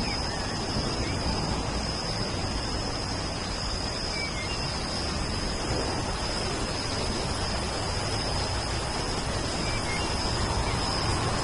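Steady rain hiss with a continuous high-pitched insect trill and a few short, faint bird chirps.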